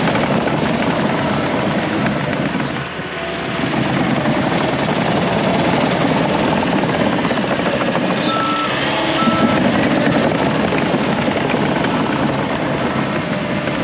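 John Deere 650K bulldozer's diesel engine running steadily under work. Two short beeps of a backup alarm come about two-thirds of the way through.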